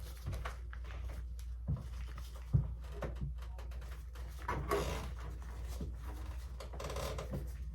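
Hand work on small threaded brass pipe fittings: a couple of sharp metallic knocks in the first three seconds, then soft scraping and handling noises, over a steady low hum.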